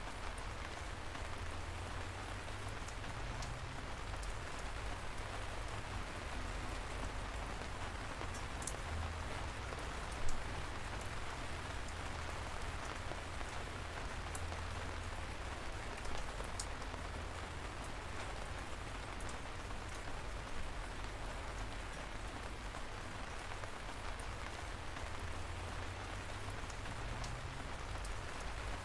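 Steady light rain falling, with a low rumble underneath and scattered individual drops ticking; a few louder drops land about ten, sixteen and twenty seconds in.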